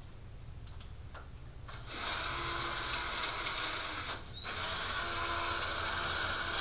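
Small electric motor of a model slot car or train running on the layout: a high-pitched whine starts about two seconds in, gliding up as it spins up, drops out for a moment around four seconds in, then runs steadily again. A low steady hum sits underneath throughout.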